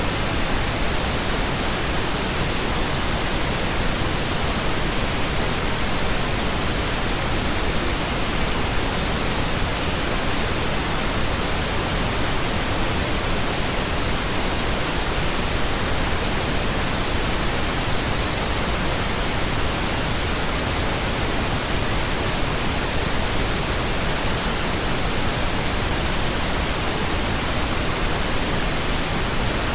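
Steady pink noise: an even, unchanging hiss spread across all pitches, with no breaks or variation.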